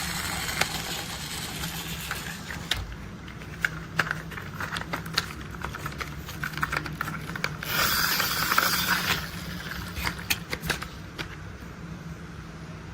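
Toy construction vehicles being handled and played with: scattered sharp clicks and rattles, with a longer rattling burst about eight seconds in, over a low steady hum.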